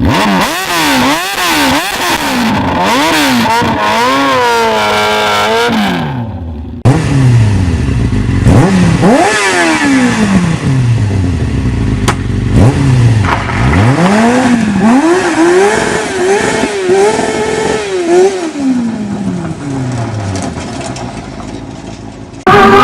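Go-kart with a motorcycle engine being driven hard, the engine revving up and dropping back again and again as it accelerates and shifts. The sound fades out about six seconds in and comes back suddenly a second later, with the same rising and falling engine note.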